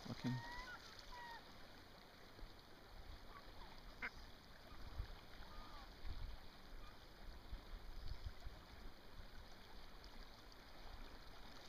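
Faint bird calls: a few short whistled notes that bend in pitch just after the start and again around seven seconds in, over a low rumble of wind on the microphone.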